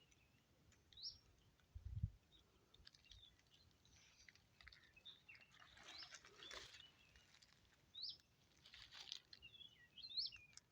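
Faint outdoor ambience: a few short, high bird chirps scattered through, with soft rustles of brush and a low thump about 2 seconds in.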